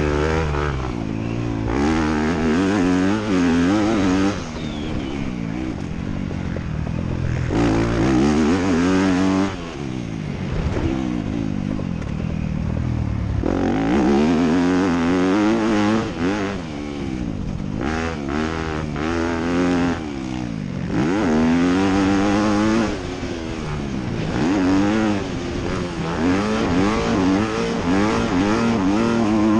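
Motocross dirt bike engine racing, revving hard and backing off again and again, its pitch rising and falling every few seconds.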